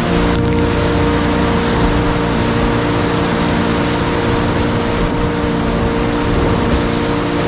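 Steady rushing noise of a whitewater creek, with a held chord of steady tones over it that changes abruptly at the start.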